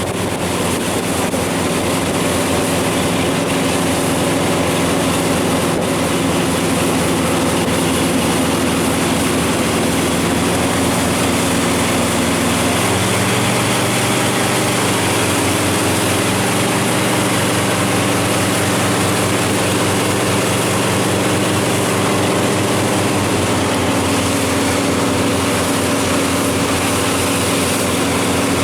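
Watercraft engine running steadily under way, with a constant rush of wind and water. Its note changes about 13 seconds in and again near 23 seconds.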